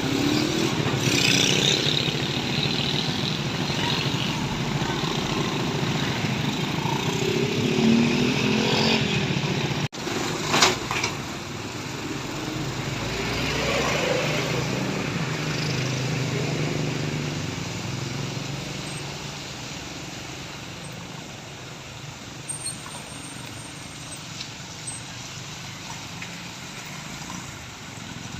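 Road traffic: large truck engines running and passing, rising and fading as they go by. About ten seconds in there is a brief loud burst. After that the traffic grows quieter.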